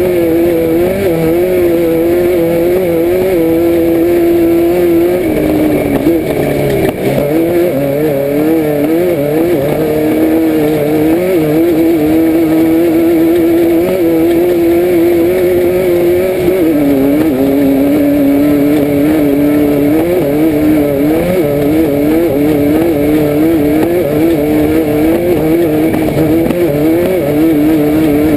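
Air-cooled 1600 cc VW flat-four engine of a Class 5/1600 Baja Bug running hard at high revs, heard from inside the car. The revs dip and climb back about six to eight seconds in and again around seventeen seconds in.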